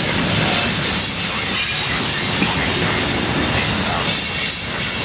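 Freight train of hopper cars rolling through a grade crossing: a loud, steady rumble and clatter of steel wheels on the rails.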